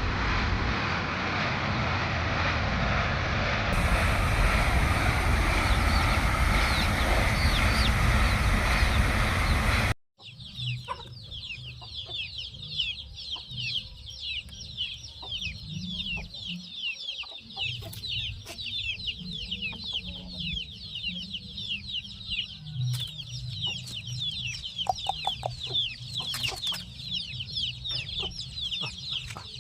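For about ten seconds there is a loud, steady rushing noise like wind on the microphone. It cuts off abruptly, and a flock of poultry chicks takes over, peeping continuously with many short, falling high chirps over a low hum.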